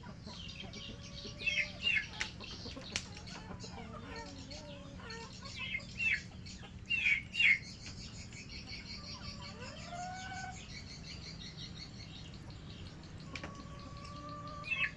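Swiftlets twittering: dense rapid high chittering, with clusters of loud, sharp descending chirps at about 1.5–2 s, 6 s and 7–7.5 s, over a faint steady low hum.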